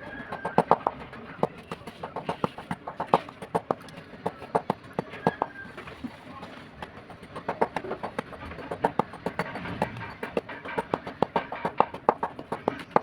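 Fired clay diya lamps being crushed: a rapid, irregular run of sharp crunches and cracks, with now and then a brief ringing clink of clay.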